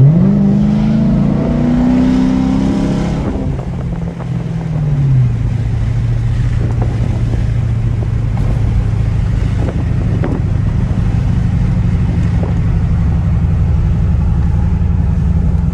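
Straight-piped Dodge Charger R/T's 5.7-litre Hemi V8 accelerating hard, its exhaust note rising for about three seconds, then falling away as the revs drop, and settling into a steady loud drone at cruise for the rest.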